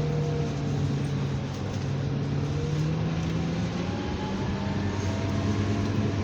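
Scania Enviro 300 bus engine running under way, heard from inside the bus, its note rising gently from about halfway through as it picks up speed.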